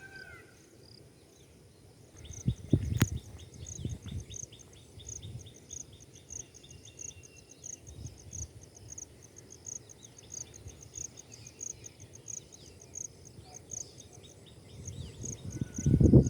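Rapid high-pitched chirping repeating about four times a second, over irregular low rumbles, with a louder low rumble near the end.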